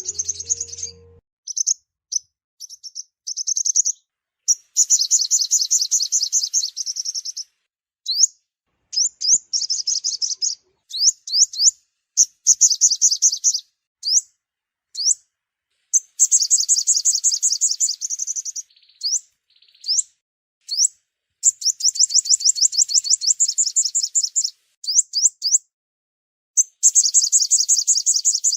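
Sunbird song played as a trapping lure: rapid, high trills in bursts of one to three seconds, broken by short upswept chirps and brief gaps.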